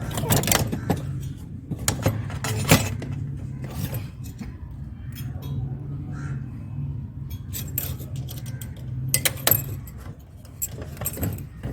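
Metal parts of a microwave magnetron clinking and scraping as it is pried apart by hand, with a few sharp clicks. A steady low hum runs underneath.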